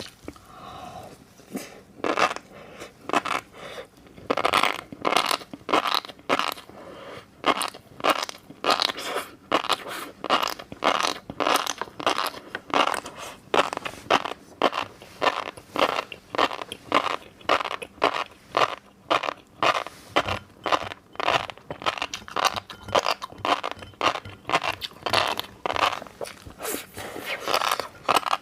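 Close-miked chewing of fish roe: the eggs crunch and pop in the mouth in a quick, steady run of crisp crunches, a few each second.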